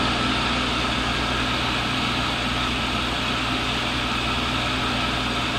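Tool grinder's motor and grinding wheel running steadily at speed, a low electric hum under an even whirring, with the wheel not yet touching the carbide tool.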